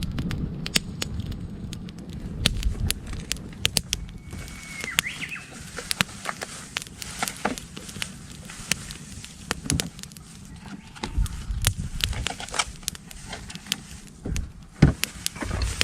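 Wood campfire crackling with frequent sharp pops. About four seconds in, a Japanese bush warbler (uguisu) whistles one held note that ends in a quick flourish.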